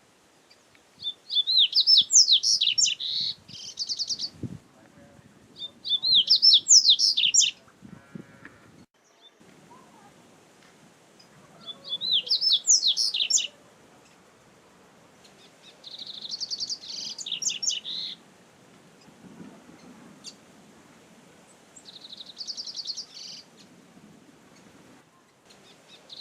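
Double-collared seedeater (coleiro) singing: five short, high songs a few seconds apart, each a quick run of rising-and-falling whistled notes that ends in a fast buzzy trill.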